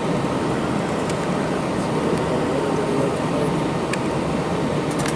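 Steady rushing cabin noise inside a jet airliner on the ground before takeoff: the hiss of the cabin air-conditioning mixed with engine hum, with a faint thin tone running through it and faint voices of other passengers about halfway through.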